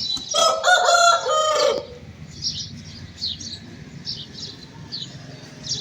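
Rooster crowing once, a loud multi-note cock-a-doodle-doo lasting nearly two seconds, followed by faint high chirps from smaller birds.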